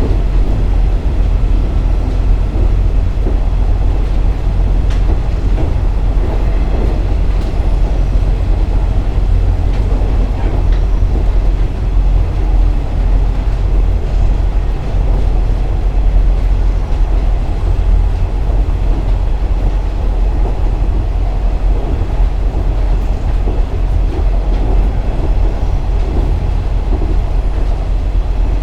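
JR Kyushu KiHa 47 3500-series diesel railcar running at speed, with a steady deep engine and wheel-on-rail rumble and a few faint clicks from the rails.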